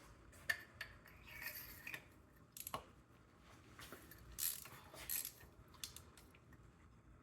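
Metal hand tools clinking and clattering as they are picked up and fitted for spark plug removal: a handful of sharp clicks with short scraping rattles in between.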